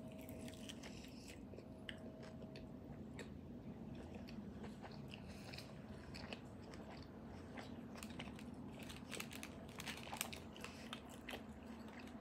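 Close-miked mouth sounds of someone biting into and chewing an empanada: crisp crunches and small wet chewing clicks, busiest about nine to eleven seconds in.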